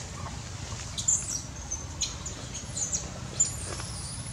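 Several short, high-pitched chirps over a steady low rumble, with a thin high whistle near the end.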